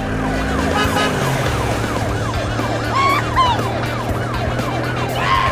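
Police siren, a fast rising-and-falling wail repeating about two to three times a second, over background music with a steady low drone.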